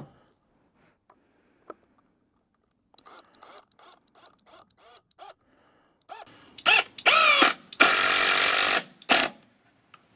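Cordless drill driving screws: a few short bursts of the motor whine, then one longer run of about a second and a half near the end. Light knocks and handling sounds come before it.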